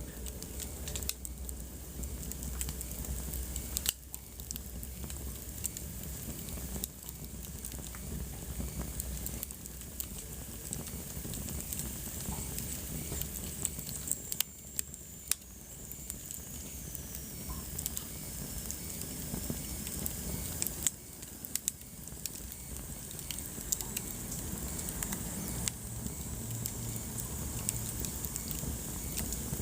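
Wood fire burning in a fireplace, crackling steadily with frequent irregular sharp pops over a low rumble of flame.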